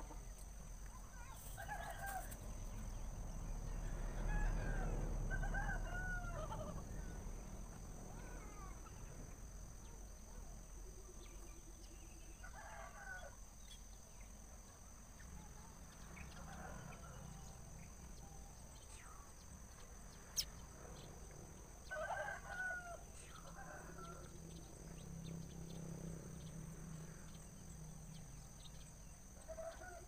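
Birds calling now and then in the background, short calls that glide up and down in pitch, with a low wind rumble swelling a few seconds in and a single sharp click about twenty seconds in.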